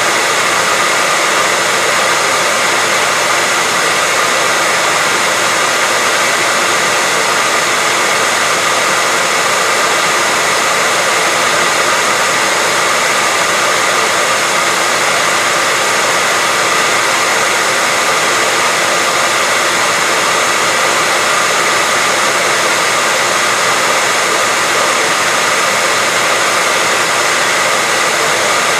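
Hair dryer blowing continuously at a steady pitch: a constant rushing hiss of air with a faint motor whine in it, unchanging throughout.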